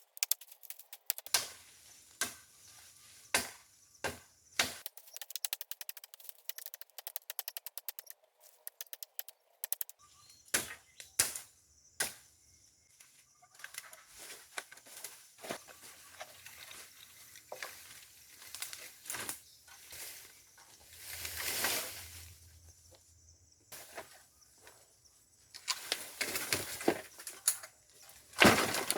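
Bamboo being chopped and handled: irregular sharp knocks and cracks, with a fast run of small ticks, and a brushy rustle that swells a little past the middle.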